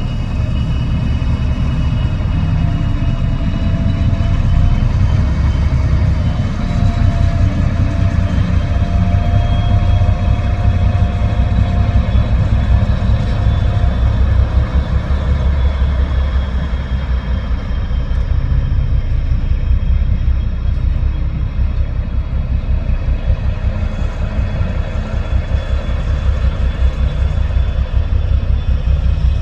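Diesel locomotive engine running with a steady low throb, with faint whining tones drifting slowly above it.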